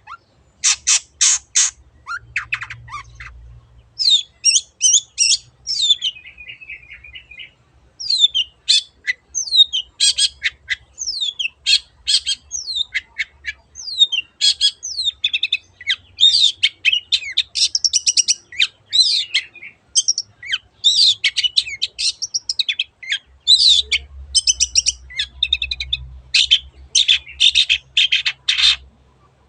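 Long-tailed shrike (cendet) singing. A few harsh, rasping notes open the song, then a fast, varied run of chirps, whistles and trills follows without a break.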